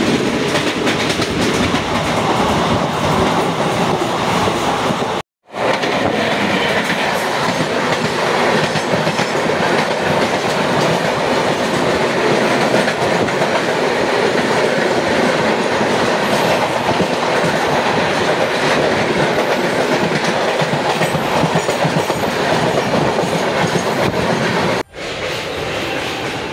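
Running noise of an Indian Railways sleeper-class train at speed, heard at an open door or window: a steady rush of wheels on rails with the clickety-clack of rail joints. Midway, the coaches of another train pass close by on the next track. The sound cuts out for an instant twice.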